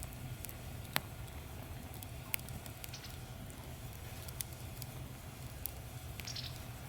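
Small wood fire crackling in a camping fire pit, with a sharp pop every second or so over a steady low hiss.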